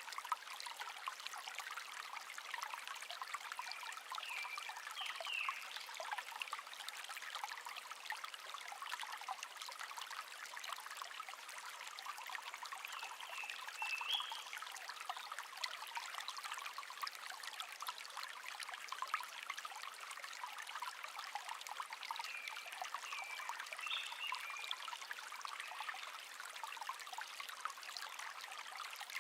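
Small stream babbling steadily, with a songbird singing short chirped phrases every several seconds.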